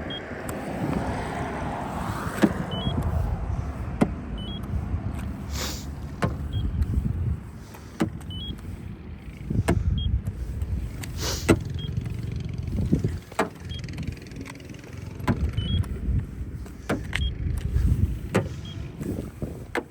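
Paint thickness gauge beeping briefly with each reading as its probe is pressed to the car's body panels, a short high beep about every two seconds, with sharp taps and clicks over a low background rumble.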